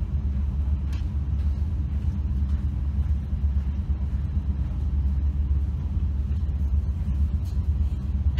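Moving train running with a steady low rumble.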